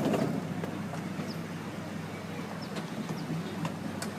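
Miniature park train running along its track, heard from a car behind the locomotive: a steady rumble and hum, with scattered clicks from the wheels and rails.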